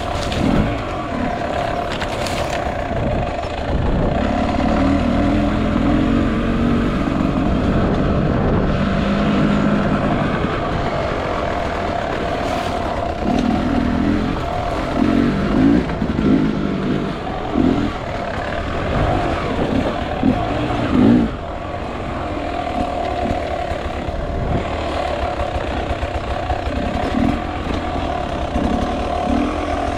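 Enduro motorcycle engine running continuously, the throttle opened and closed in irregular surges.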